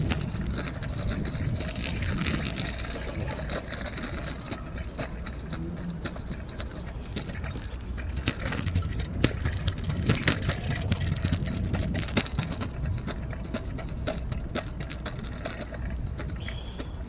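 Vehicle engine and road noise: a steady low rumble with scattered knocks and clicks.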